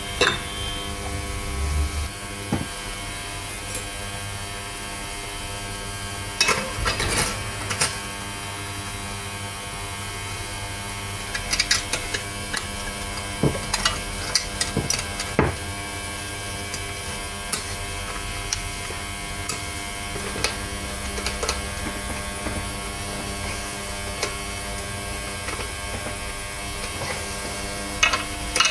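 A steady electrical hum runs throughout, with clusters of short clicks and light clatter, typical of metal parts being handled, about a quarter of the way in, around the middle and near the end.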